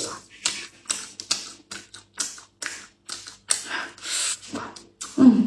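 Close-mouthed eating of a braised duck wing drumette: wet chewing clicks and smacks coming irregularly, about two a second. A short hummed 'mm' comes near the end.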